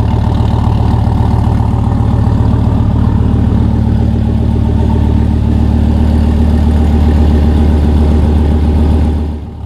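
Car engine idling steadily with a deep, even exhaust note, through aftermarket headers with the catalytic converters deleted. The level dips briefly just before the end.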